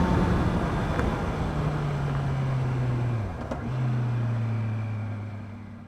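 Honda CB650R's inline-four engine on its stock exhaust, heard from the rider's seat, with the engine speed slowly falling. The note breaks and dips briefly about three seconds in, then carries on lower and fades out at the end.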